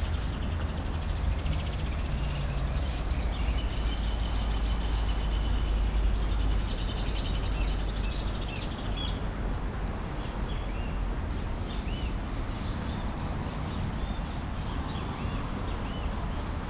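Birds chirping in quick runs of short, arching notes, busiest in the first half and fainter later, over a steady rushing outdoor noise with a low rumble underneath.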